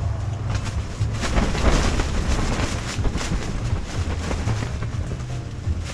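Strong gusty wind buffeting the microphone, a low rumble that rises and falls with the gusts, with irregular gusting noise over it.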